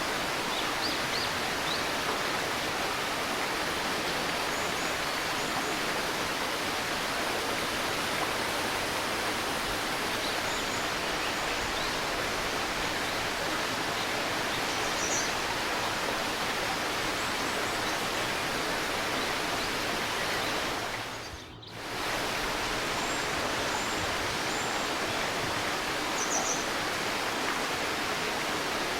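A shallow stream babbling steadily, with short, faint, high bird chirps here and there. The running water briefly fades out and back in about two-thirds of the way through.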